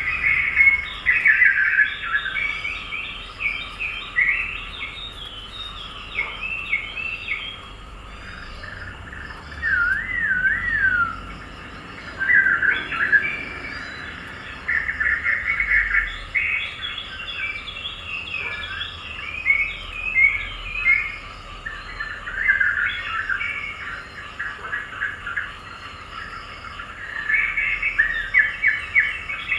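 Small songbirds chirping and twittering, several calls overlapping in a busy chorus of short chirps and warbled trills that keep coming and going.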